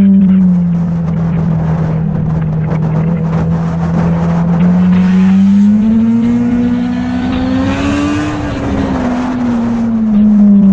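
Motorcycle engine running while riding: its pitch drops slightly near the start and holds steady, then climbs for a few seconds in the middle as it speeds up, and falls back near the end.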